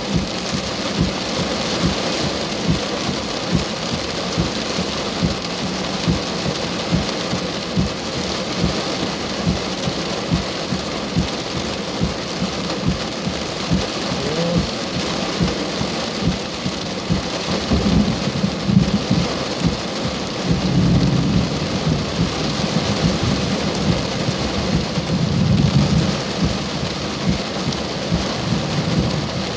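Heavy thunderstorm rain falling steadily, with many sharp drop hits close by. Low rolls of thunder rumble three times in the second half.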